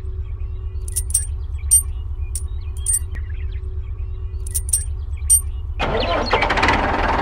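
Small engine running with a steady low throb, with scattered light metallic clicks over it. About six seconds in, a louder, hissing running noise sets in.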